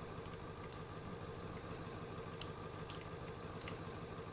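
A steady low hum with four short, sharp clicks at irregular intervals.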